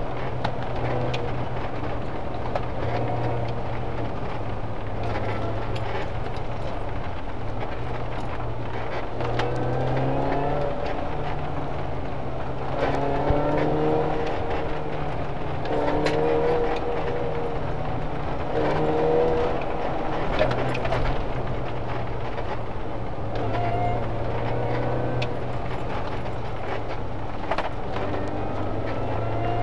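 Mini Cooper S's four-cylinder engine driving on a winding road, its pitch rising as it accelerates several times and dropping back between, over steady road noise with occasional short clicks.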